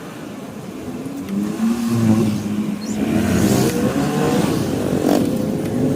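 Motorcycle engine accelerating, getting louder about a second and a half in, over steady road noise.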